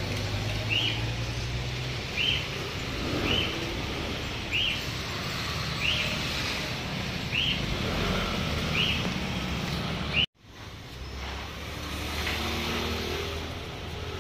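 A bird chirps the same short high note over and over, about once every three-quarters of a second, over the steady hum of street traffic. The sound cuts out abruptly about ten seconds in, and the chirping does not return after it; only the traffic hum continues.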